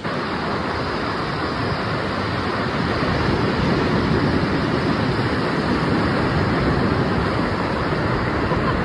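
Ocean surf washing onto the beach: a steady rush of noise.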